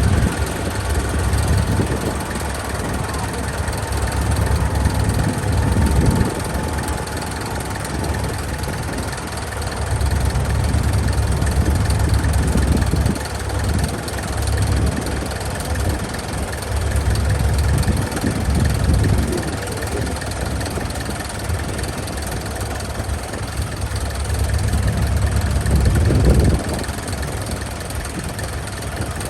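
An engine running, loud and uneven low rumble, with voices in the background.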